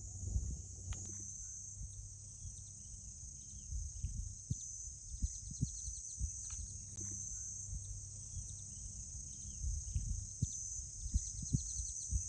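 Outdoor ambience: a steady high-pitched buzz of insects, with faint bird chirps, a low rumble and a few soft knocks.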